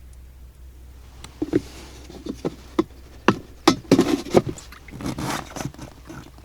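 Irregular sharp knocks and clatter of things handled in a small boat, about a dozen over a few seconds, followed by a short scraping rustle.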